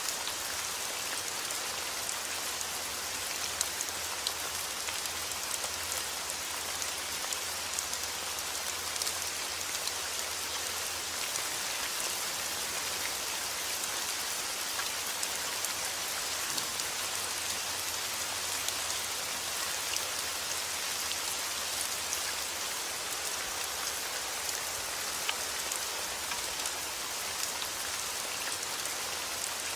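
Heavy rain falling steadily, with individual drops ticking sharply now and then through the even hiss.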